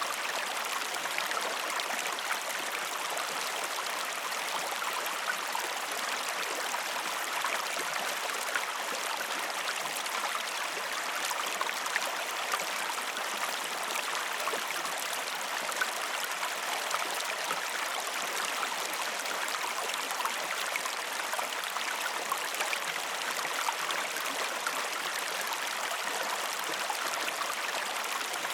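River or stream water flowing and babbling steadily, an even rushing hiss with small scattered splashes and drips.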